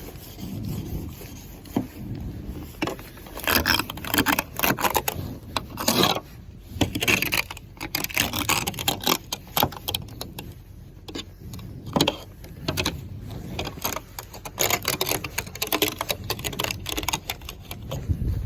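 Snow scraper dragged over a car, a quick irregular run of scraping strokes. The strokes are sparser for the first few seconds, then come several a second.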